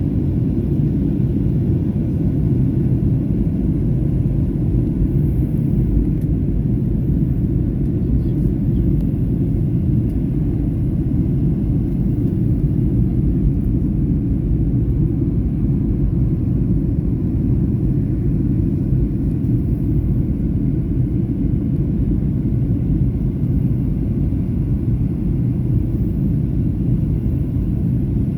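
Steady low rumble of a Boeing 737-800 in flight, heard inside the passenger cabin: its CFM56-7B turbofan engines and the airflow over the fuselage.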